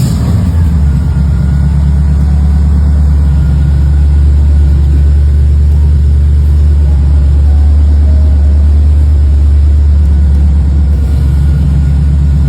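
1955 Mercury Monterey's V8 running steadily at idle through stainless headers and a 2-inch dual exhaust with Flowmaster mufflers; a loud, deep, even exhaust note.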